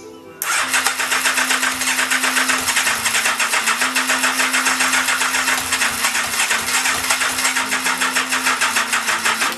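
Yamaha FJ inline-four motorcycle engine being turned over on its electric starter without firing. It cranks with an even pulsing beat for about nine seconds, starting about half a second in, on a battery that is running low.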